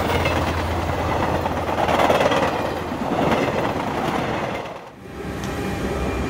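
Electric train running on the rails, a loud rumble with some clatter from the wheels. About five seconds in the sound cuts to a steadier hum with faint, steady whining tones as an electric train draws near.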